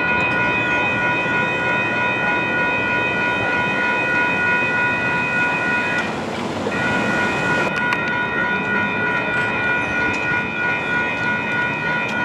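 Light rail train running past a grade crossing, with a steady rumble under several steady high tones that break off briefly about six seconds in.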